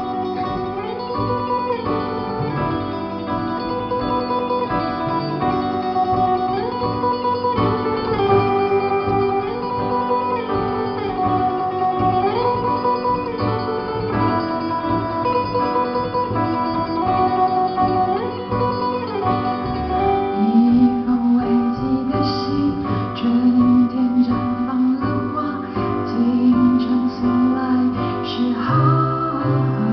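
Live band music led by guitar, with a gliding melody line repeating over the chords; a lower melody line comes in about twenty seconds in.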